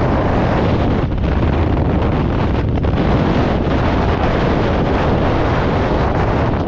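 Loud, steady wind noise buffeting the microphone, as air rushes past it during a parachute jump.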